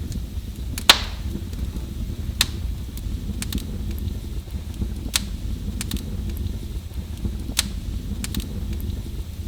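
Wood fire burning with a steady low rumble and irregular sharp crackles and pops, the loudest pop about a second in.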